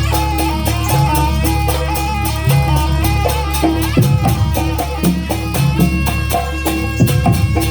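Traditional Banyuwangi jaranan ensemble music played live: a reedy wind melody that moves in steps over drums and a steady, fast clatter of metal percussion.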